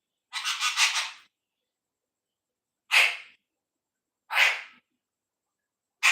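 Pet parrot giving harsh squawks: a quick run of four or five at first, then three single short squawks about one and a half seconds apart.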